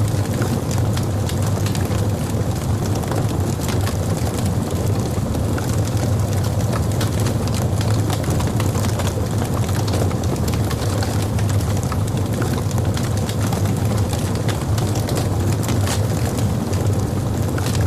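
Wood logs burning in a fireplace: a steady low rumble of flames with frequent small, irregular crackles and pops throughout.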